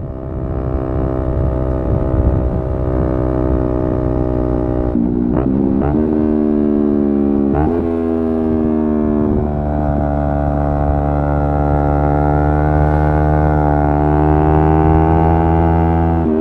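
Yamaha R3 motorcycle's 321 cc parallel-twin engine running steadily. About five seconds in, its note breaks and jumps sharply three times within a few seconds, then slowly climbs in pitch.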